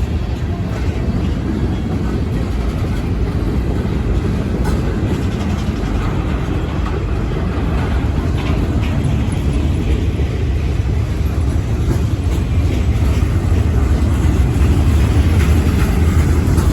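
Manifest freight train's cars rolling past: a steady, loud, low rumble of wheels on rail that grows a little louder toward the end.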